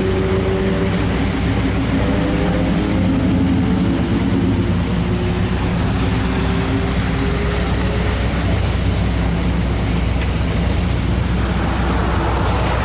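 A car engine running steadily, with a low hum and a broad hiss over it; a higher tone in its sound drifts slowly upward over the first several seconds, then fades.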